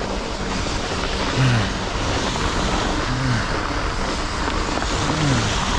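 Steady rush of wind on the microphone and tyre noise as a fat bike is ridden through snow, with a short low falling tone about every two seconds.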